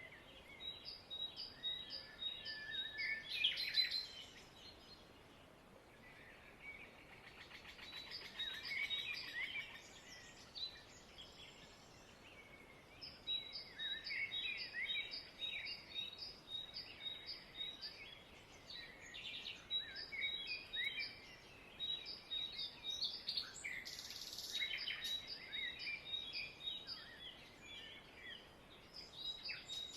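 Many small birds chirping and twittering together, with quick runs of short, high, repeated chirps, over a faint steady background.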